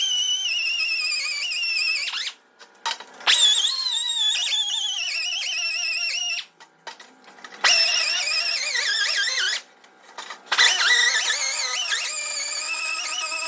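High-speed power grinder whining in repeated bursts, its pitch sagging and wavering as it bears on the work. It runs, stops about two seconds in, restarts, and cuts out and starts again twice more.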